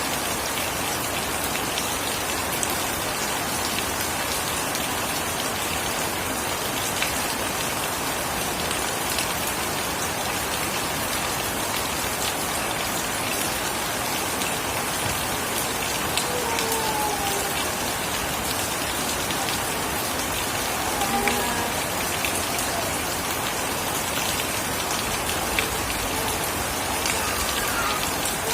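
Steady rain falling on surfaces, a dense even hiss flecked with the ticks of individual drops. In the second half a few faint, short whistle-like glides rise above the rain.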